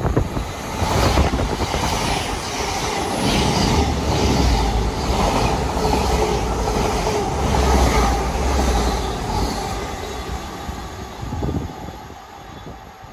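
A train passing: a steady rumble with regular clicks of wheels, dying away over the last few seconds.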